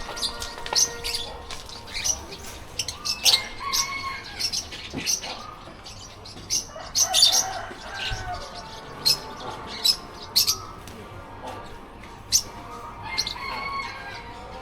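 Many birds chirping and squawking together: a dense scatter of short, sharp high calls, with a few short whistled notes mixed in.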